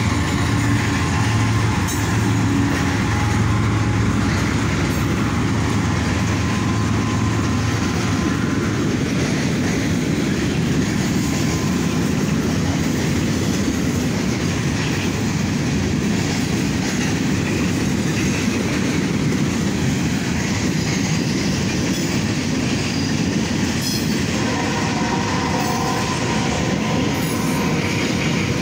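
Kansas City Southern freight train passing close by: a steady heavy rumble with wheels clattering on the rails. A low engine hum fades after the first several seconds, and a steady squeal joins about four seconds before the end.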